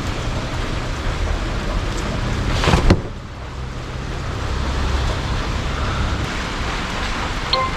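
Heavy rain falling with a steady low rumble, and a loud swell of noise that cuts off abruptly about three seconds in. A short beep near the end.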